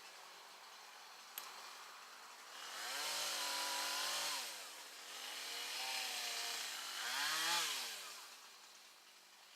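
Two-stroke chainsaw revving up and back down three times, with its pitch rising, holding and dropping each time. A single sharp click comes shortly before the first rev.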